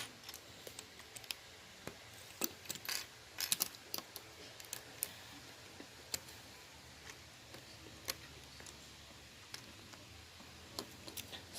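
Plastic Lego bricks clicking and clattering as they are handled. A scatter of sharp clicks, most of them in the first five seconds and only a few after.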